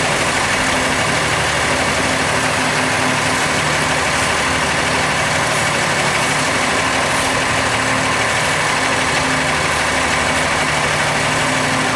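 Heavy engine idling steadily, with a low hum that fades in and out every second or so.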